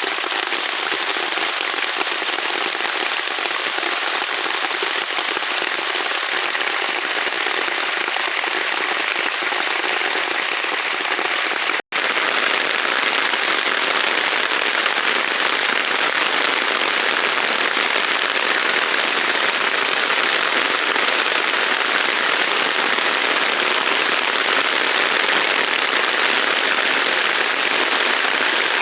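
Heavy rain falling in a forest, a loud, steady hiss. It is broken by a split-second gap about twelve seconds in and is a little louder after it.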